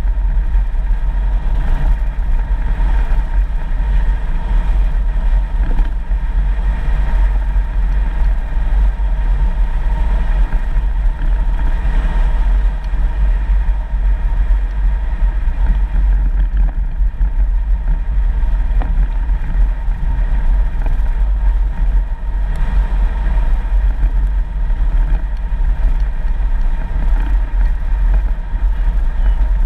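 A 4x4 vehicle driving on a dirt road: a steady, heavy low rumble of engine and tyres that never lets up.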